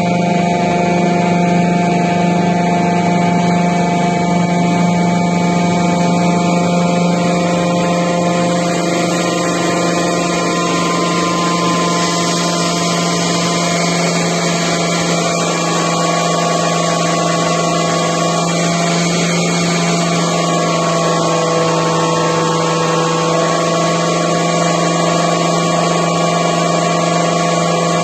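A repaired 310.112 fixed-displacement axial-piston hydraulic pump running steadily on a test drive, a constant deep hum with several higher whining tones over it. Some of the higher tones shift slightly in pitch about halfway through.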